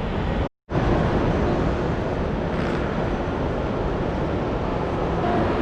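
Steady outdoor city noise with traffic, a dense even rush. It drops out completely for a fraction of a second about half a second in.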